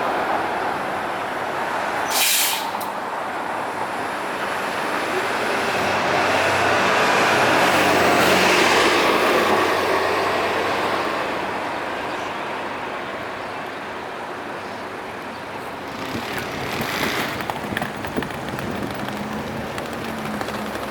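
Street traffic passing close by, swelling as a heavy vehicle goes past about eight seconds in, with a short air-brake hiss about two seconds in and another near sixteen to seventeen seconds.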